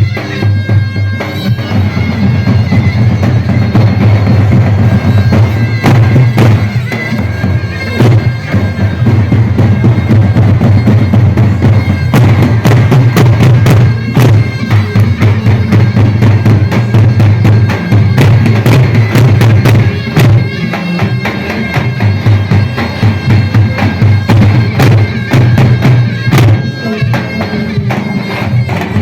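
Zurna (Turkish double-reed shawm) playing a loud melody over the beat of a davul bass drum: a halay dance tune.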